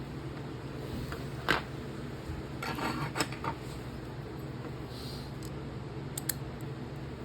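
Small metal clicks and clinks as a folding knife's parts (liner, washer, scale) are handled and fitted together: one sharp click about a second and a half in, a short flurry of clinks around three seconds, and two quick ticks near the end. A low steady hum runs underneath.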